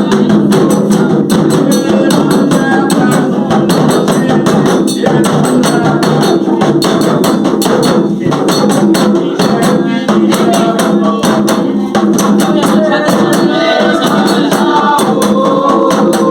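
Devotional singing for the orixás over a fast, steady hand-percussion rhythm with shaken, jingling strokes.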